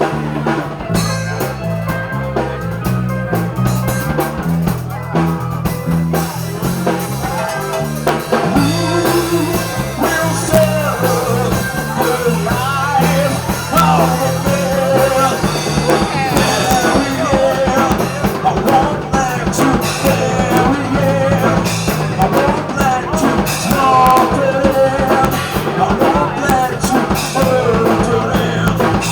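Rock band playing, with a repeating bass riff and drums throughout. Singing comes in about eight seconds in, where the music gets louder.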